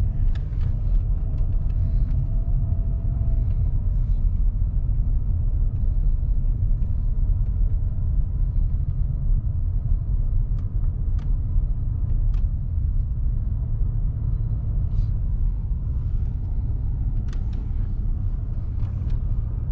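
Steady low rumble of engine and road noise inside a moving car's cabin, with a few faint clicks.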